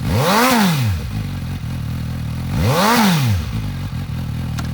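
2018 Suzuki GSX-S750's inline four-cylinder engine with a Yoshimura Alpha exhaust, idling and revved twice in quick throttle blips, each rising and falling back to idle within about a second, the second about two and a half seconds after the first.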